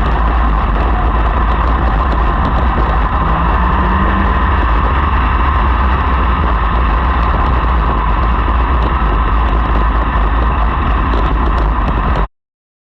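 A field of sprint car engines running together on a dirt oval: a loud, steady, dense engine noise that cuts off suddenly about twelve seconds in.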